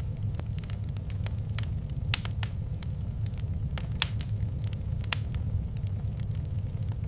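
Wood fire in a fireplace crackling: scattered sharp pops and snaps over a steady low rumble of the flames. A few louder pops come about two, four and five seconds in.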